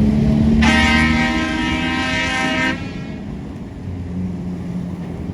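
A truck's horn sounds one long blast of about two seconds, starting a little under a second in and cutting off sharply, over the low running of heavy truck engines.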